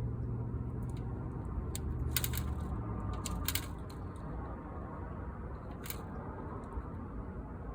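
A few short, sharp clicks and taps from hand work on a window screen and its frame, over a steady low hum that eases off about four seconds in.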